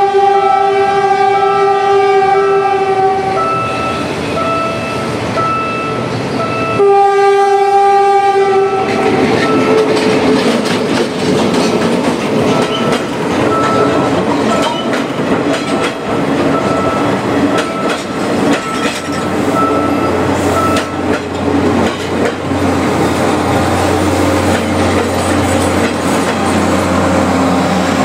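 Philippine National Railways diesel train sounding its horn in a long blast that ends about three seconds in, then a second blast about seven seconds in. The train then passes close by, wheels clicking over rail joints, with a low engine hum near the end.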